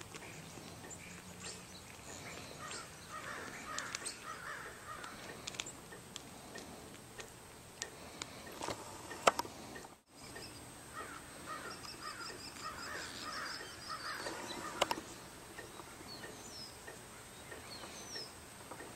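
Birds calling outdoors: short harsh calls come in clusters, with a high thin trill partway through and a few scattered clicks.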